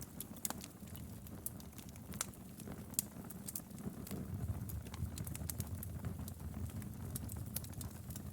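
Wood fire crackling in a fireplace: a steady low rumble of flame with frequent sharp, irregular pops and snaps of burning firewood, a louder snap about three seconds in.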